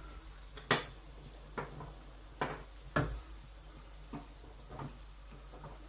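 Kitchen utensils and cookware being handled: about six scattered sharp clicks and knocks, the loudest a little under a second in and about three seconds in.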